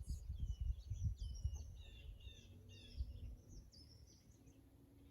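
Small birds chirping, a run of short high calls and whistles that thin out near the end, over a low background rumble.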